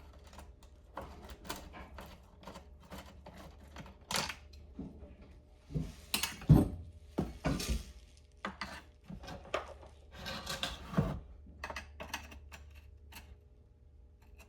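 A screwdriver and small parts clicking and knocking against a Homelite XL2 chainsaw's plastic recoil cover as its screws are backed out. There are short bursts of scraping and handling in the middle, and a sharper knock about six and a half seconds in.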